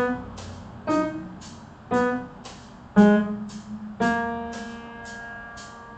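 A melodic instrument plays the arpeggio phrase B, D-sharp, B, G-sharp, A-sharp, one note about every second, the last held, over a metronome ticking about twice a second.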